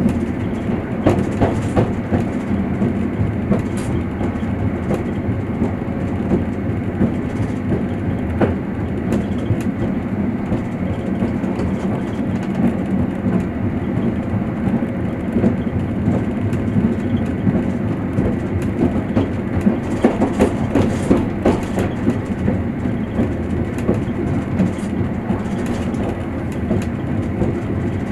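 Passenger train carriage heard from inside, running along the rails: a steady rumble of wheels on track, with scattered clicks and knocks as the wheels pass rail joints, a cluster of them about a second in and another about two-thirds of the way through.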